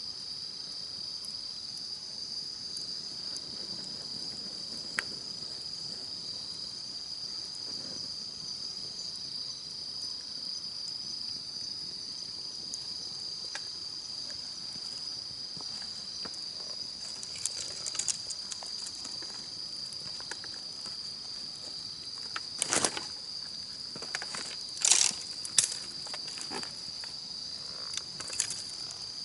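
A steady, high-pitched chorus of night insects chirring over a wood campfire. The fire gives a few scattered crackles from about halfway, then several sharp, loud pops of burning wood about three-quarters of the way in.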